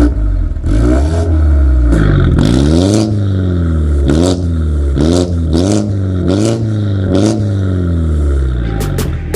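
BMW F30 320i's B48 turbocharged four-cylinder revved through an aftermarket stainless full exhaust system with a cutout valve, held up high at first, then blipped about eight times in quick succession, each blip rising and falling in pitch, with a sharp crack at the top of several blips.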